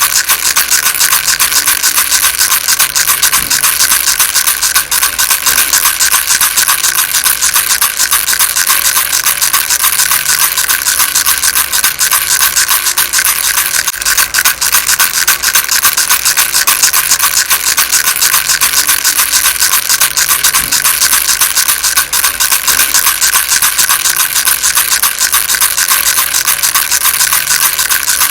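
Baby rattle shaken without a break: a dense, steady, high rattle of many small pellets.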